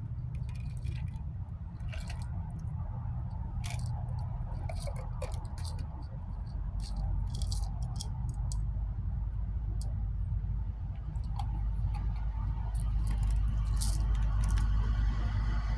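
Small handling noises: scattered crinkles, clicks and scrapes of things being moved about close to the phone, over a steady low rumble.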